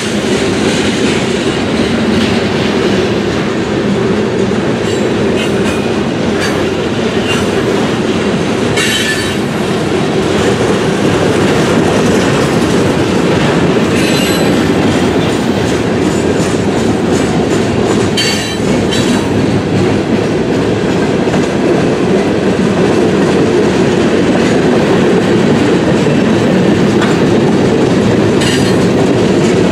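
Freight cars of a passing train rolling by steadily, wheels rumbling and clattering on the rails, with a few brief high-pitched wheel squeals.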